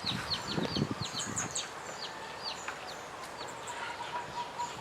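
Chicks peeping: many short, high chirps, each sliding down in pitch, coming quickly in the first second and a half and then more sparsely. The mother hen gives a couple of low clucks in the first second.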